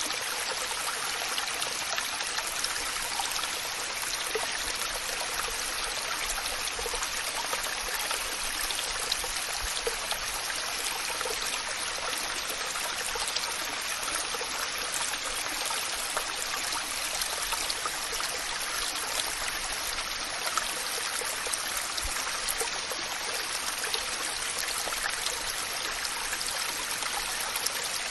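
Waterfall and stream water rushing in a steady hiss, with small splashes scattered through it.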